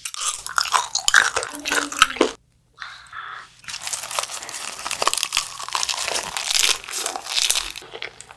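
A girl biting and chewing fermented skate with lettuce wraps and kimchi, close to the microphone: crunchy, wet mouth sounds that break off briefly about two and a half seconds in.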